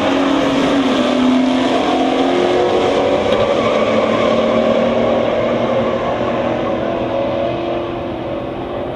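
Muscle car V8 engines under hard acceleration on a drag run. The engine sound is loud and steady with a strong low pitch, then slowly fades over the last few seconds.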